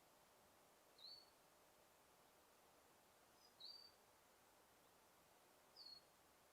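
A bird giving short, high single chirps, three of them about two to three seconds apart, over a faint steady hiss of forest ambience.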